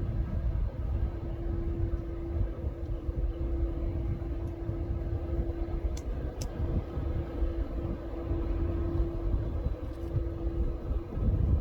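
Distant engine noise: a steady low rumble under a constant hum, with two faint clicks about six seconds in.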